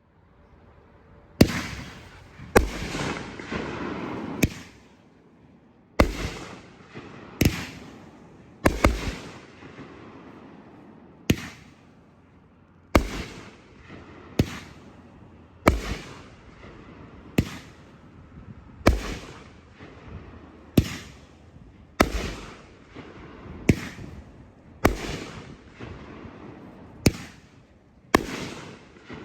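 A 500-gram, 16-shot consumer fireworks cake firing. Its shots come as sharp bangs about every one to two seconds, each followed by a fading echo.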